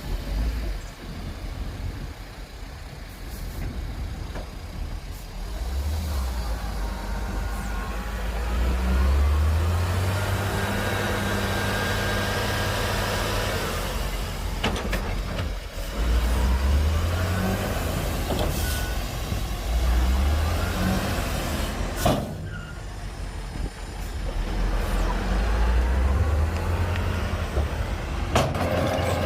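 Diesel engine of heavy earthmoving machinery working under load, revving up and back down several times, with a few sharp metallic clanks.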